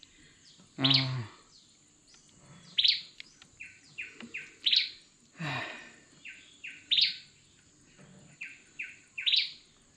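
Wild birds calling: a series of short, sharp notes that slide down in pitch, repeated every couple of seconds, with quicker, shorter chirps in between.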